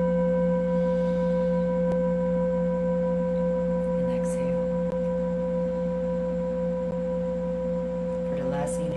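Singing bowl ringing after a strike, a steady low hum with a few clear overtones above it, slowly fading.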